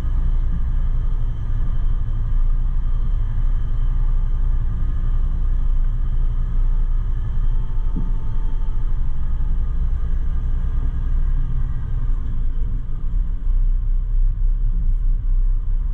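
Container truck's engine and road noise: a steady low rumble while the truck drives.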